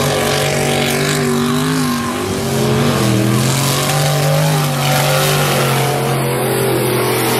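Mud-racing truck engine running hard at high revs, its pitch dipping briefly about two seconds in, then climbing back and holding high.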